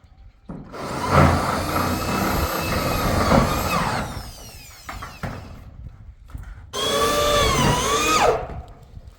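A power tool such as a drill runs in two bursts, the first about three seconds long and the second shorter, near the end. Its pitch dips and recovers as it takes load.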